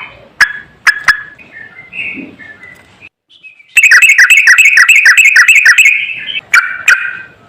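Yellow-vented bulbul song: a few sharp chirps and soft warbled notes, a brief pause about three seconds in, then a loud fast run of repeated notes, about four a second for nearly three seconds, followed by two sharp calls.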